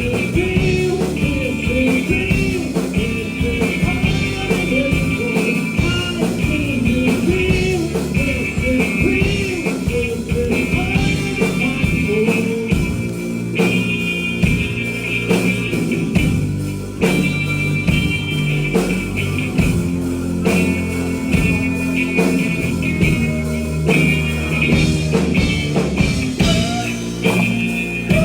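Live rock band playing a psychedelic rock song: electric guitar over a steady drum beat.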